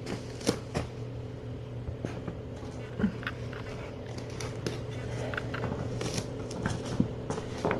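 Scattered rustles and light clicks and knocks of things being handled, over a steady low hum.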